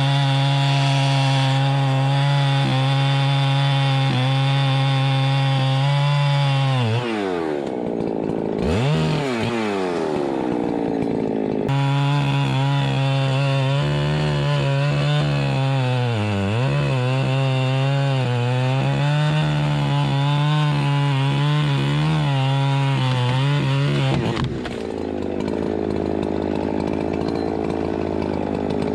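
Chainsaw engine running at high revs with a steady whine. About seven seconds in it drops off, revs up briefly, then returns to high revs and dips once more before falling to a lower, rougher sound near the end.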